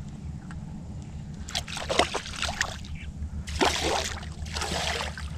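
Water splashing close by: a quick run of splashes about one and a half seconds in, then two longer splashes near the end.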